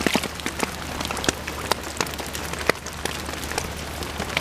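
Steady rain falling, with many sharp individual drops and drips landing close by at an irregular pace.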